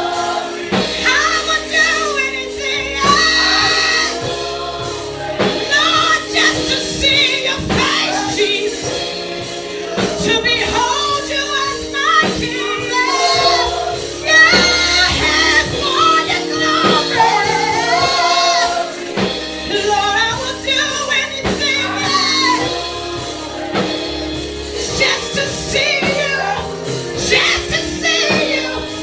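Gospel worship song: singing over held instrumental accompaniment.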